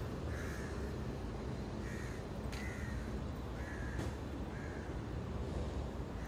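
A bird calling repeatedly in about six short calls, a second or less apart, over a steady low outdoor rumble, with two brief clicks in the middle.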